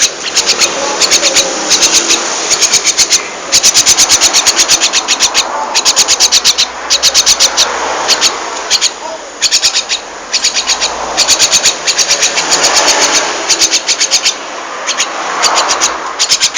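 A jalak (starling) chattering its song: runs of rapid, sharp clicking rattles, about ten clicks a second, repeated again and again, with softer scratchy warbling between them.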